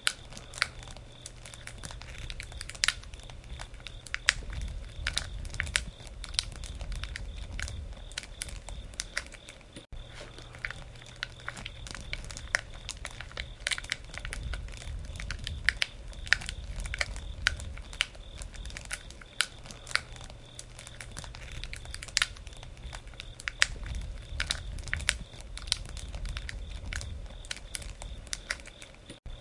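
Wood campfire burning, crackling with irregular sharp pops and snaps over a low rumble of the flames.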